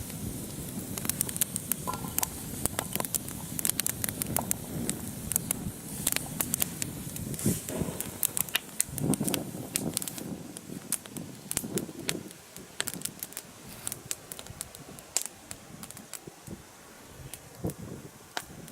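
Campfire crackling, with many irregular sharp pops, busiest in the first half and thinning out towards the end, along with some rustling of handling.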